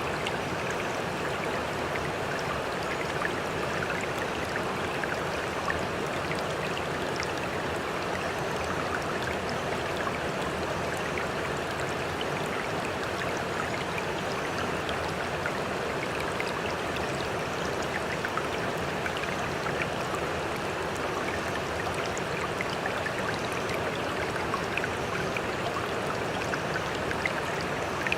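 Water running and splashing steadily, a constant rushing with small droplet-like ticks scattered through it and no rise and fall of breaking waves.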